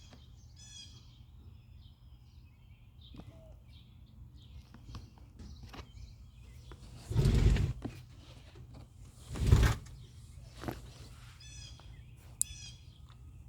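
Birds chirping and singing outdoors in repeated quick trills, with two short, loud bursts of noise about seven and nine and a half seconds in.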